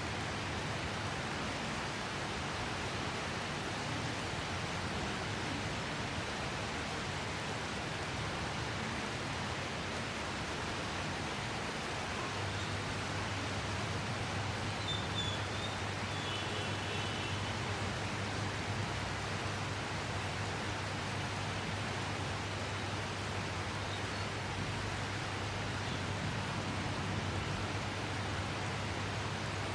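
Steady, heavy rain falling, an even rushing hiss. About twelve seconds in, a low steady hum joins it.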